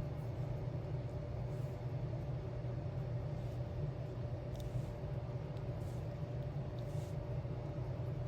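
Steady low hum with a faint steady higher tone over it, and a few faint, light ticks in the second half, which fit resin drills being tapped onto a diamond-art sticker.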